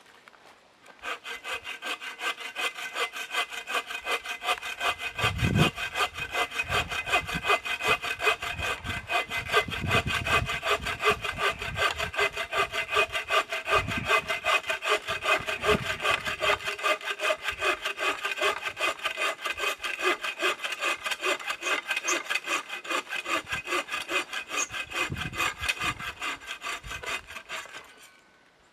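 Hand saw cutting wood in fast, even back-and-forth strokes, starting about a second in and stopping near the end, with a few low knocks along the way.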